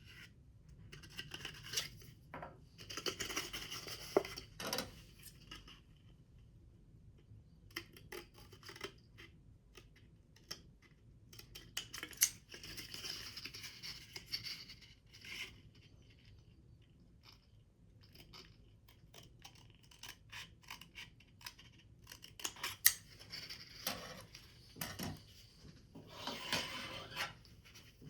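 Scissors cutting paper in several spells of quick snips, with the paper rustling between cuts.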